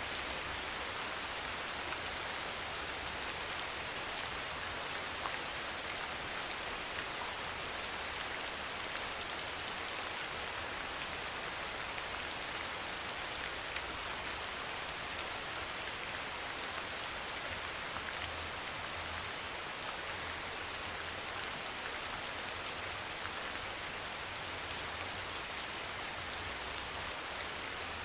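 Steady, soft rain falling, with scattered individual drops ticking.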